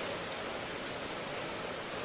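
Steady rain ambience: an even hiss of falling rain with faint scattered drop ticks, unchanging throughout.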